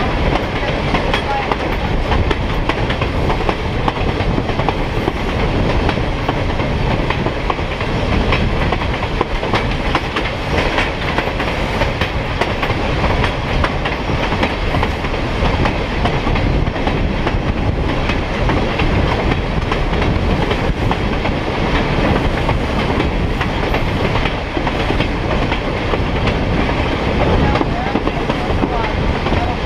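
Steady rumble and clatter of a train's wheels rolling on the rails, heard from on board the moving train.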